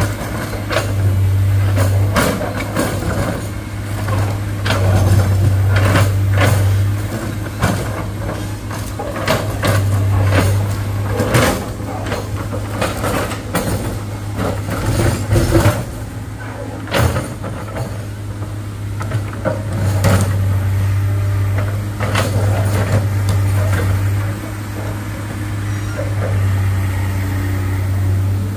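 Heavy diesel engine running with a deep steady hum that swells and eases every few seconds, under many sharp clanks and knocks.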